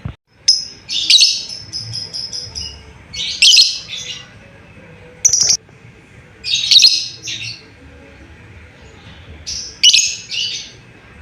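Lovebird calling in loud bursts of shrill, rapid chirps, about five bursts spaced roughly two seconds apart. It is a lure call meant to get other lovebirds to answer.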